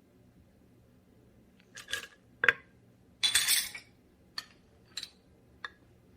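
Kitchen utensils and dishes clinking and knocking during food preparation: about half a dozen separate clinks, with a louder scrape or rustle lasting about half a second in the middle.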